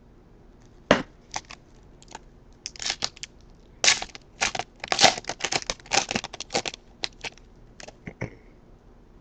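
Foil trading-card pack wrapper being torn open and crumpled by hand, a dense run of crinkling and tearing in the middle with scattered crackles before and after.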